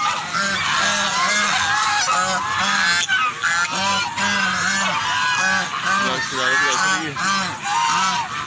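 A large flock of domestic waterfowl honking and calling continuously, many voices overlapping.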